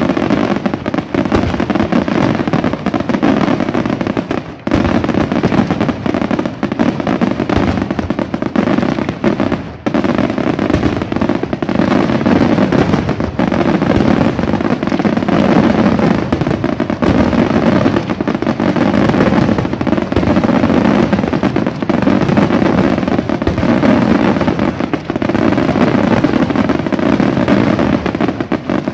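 Aerial fireworks display: a dense, continuous barrage of shell bursts and crackling, with hardly a gap between reports. It eases off only briefly, twice, about four and a half and ten seconds in.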